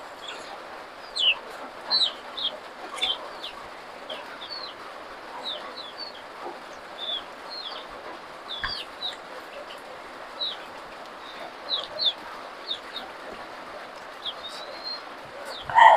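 Birds chirping: short, high chirps scattered through, several close together at times, over a steady background hiss.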